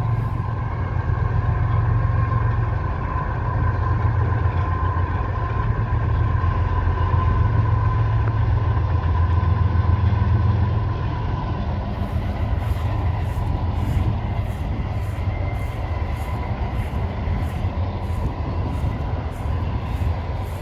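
Freight train running by: a steady, loud low rumble with a faint whine over it. From about twelve seconds in, an even clicking comes about twice a second.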